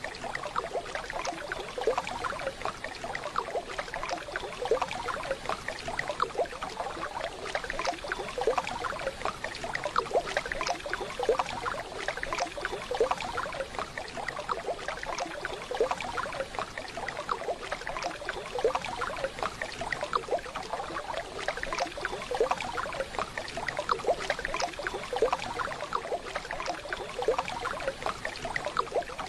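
Waterfall: water running and splashing steadily.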